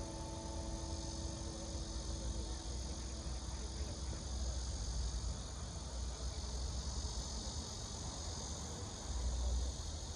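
Sustained notes of music dying away in the first second or so, then steady outdoor nature ambience: a constant high hiss over low, uneven rumbles that swell briefly near the end.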